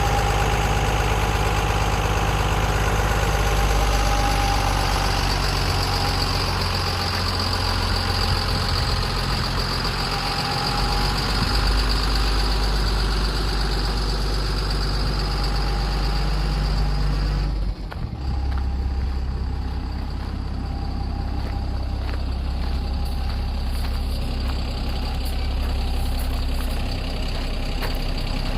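Tata LPT 3518 truck's diesel engine idling steadily. About two-thirds of the way through, the sound briefly drops out and then carries on duller and lower.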